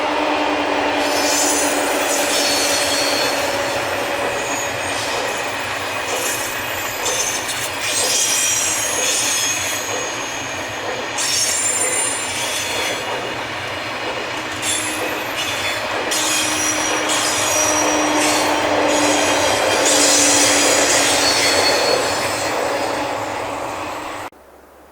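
A passenger train rolling past at low speed, its wheels squealing repeatedly in high whistling tones over the rumble of the wheels on the rails. A steady low hum comes and goes. The sound cuts off suddenly near the end.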